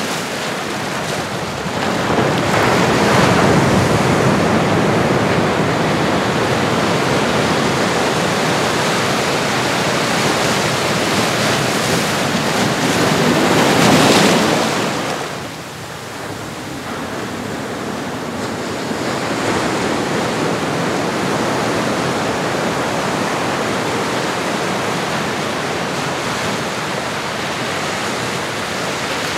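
Ocean surf: waves washing in as a steady rushing that swells about two seconds in, builds to its loudest around fourteen seconds, then falls away sharply before settling back into a steady wash.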